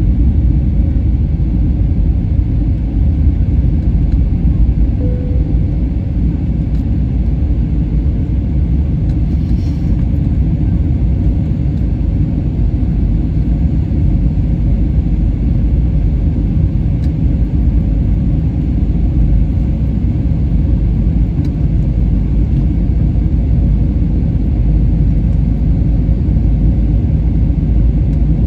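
Steady low rumble of airliner cabin noise, jet engines and airflow heard from inside the cabin during the descent.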